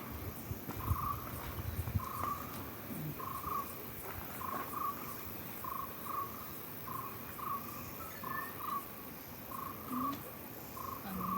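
An animal calling over and over, a short note near 1 kHz, often doubled, about once a second, against a steady high insect drone. Low rumbles in the first two seconds.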